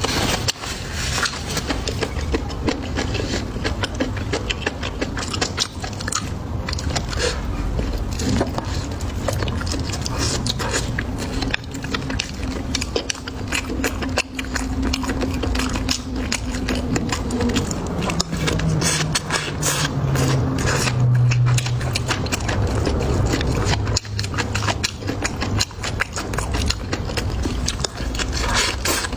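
Close-miked eating: continuous chewing and crunching, with irregular clicks and scrapes. A low steady hum joins partway through and drops in pitch before fading.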